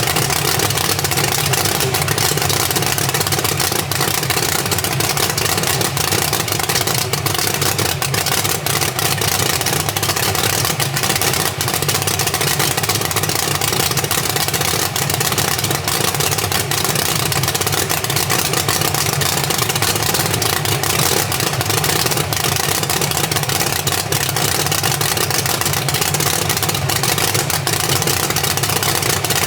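A vehicle engine running steadily under a constant wash of noise, with no revving.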